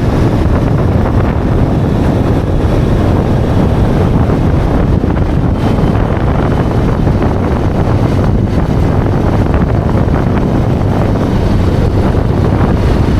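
Royal Enfield Interceptor's parallel-twin engine running steadily through its stock exhaust, with wind buffeting the microphone.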